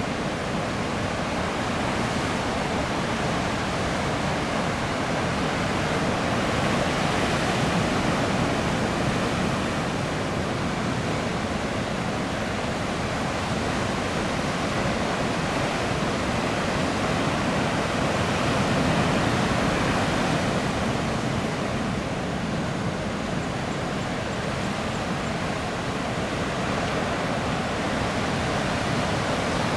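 Heavy typhoon swell breaking on the reef and shore: a steady roar of surf that swells a little louder twice.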